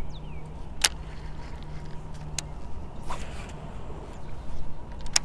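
Steady low outdoor rumble with a faint on-and-off hum, two short falling chirps at the very start, three sharp clicks spread through it and a short swish about three seconds in.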